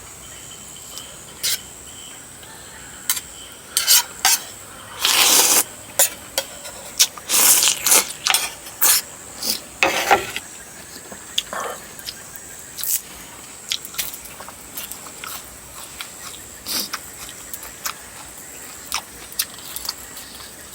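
Close-up eating sounds: cutlery clicking against a bowl, with several short noisy bursts of slurping and chewing on rice noodles in coconut curry and chicken feet, scattered irregularly.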